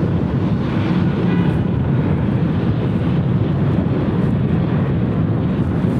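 Boeing 757-200 jet engines running at taxi power: a steady, loud rumble.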